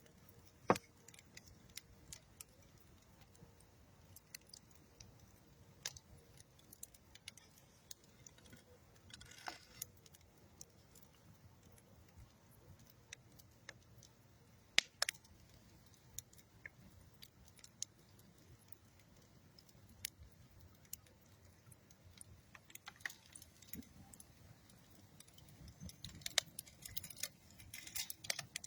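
Wood fire of old railroad wood and dead tree wood crackling, with scattered sharp pops. A few louder pops stand out about a second in, near ten seconds and near fifteen seconds, and the crackling grows busier near the end.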